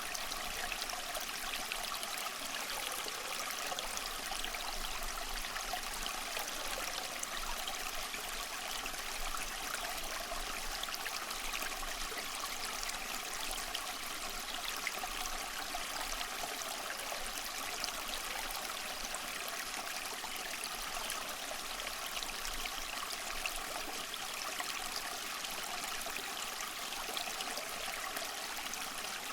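Water trickling and splashing steadily down a small tabletop cement waterfall fountain, kept flowing by a submersible pump.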